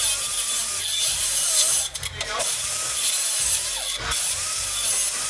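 Power tool cutting into the sheet-metal body of a 1978 Pontiac Trans Am: a harsh, steady hiss with a whine that dips and recovers as it bites, briefly easing off about two seconds in and again near four seconds.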